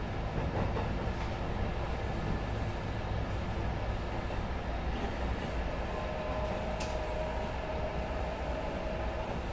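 Sanyo Electric Railway 6000 series electric train running along the line, heard from inside the cab: a steady rumble of wheels and motors. About six seconds in a faint steady whine joins, and a single sharp click sounds about a second later.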